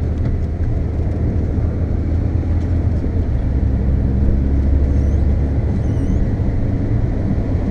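Volkswagen Golf driving on a wet track, heard from inside the cabin: a steady low engine drone under the hiss of the tyres on wet road.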